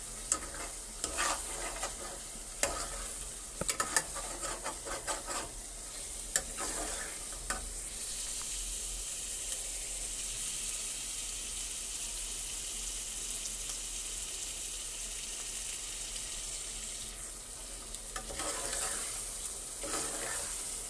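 Thick meat curry being stirred and scraped with a metal spoon in an aluminium pot, with sharp clicks of the spoon against the pot through the first several seconds, then a steady sizzle as it fries in oil, and more stirring near the end. It is the bhuna stage, fried until the oil comes up to the top.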